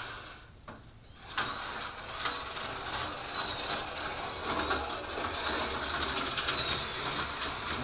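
HO-scale slot car's small electric motor running on the track. It briefly cuts out, starts again about a second and a half in, then whines, the pitch rising and falling as the car speeds up and slows through the layout.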